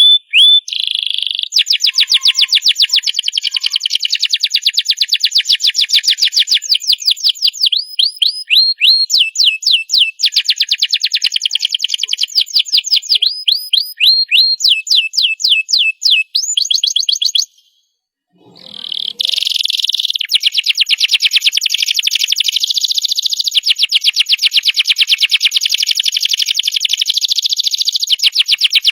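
Domestic canary singing vigorously: long runs of fast repeated-note trills, many notes a second. The song breaks off briefly a little past halfway, then resumes.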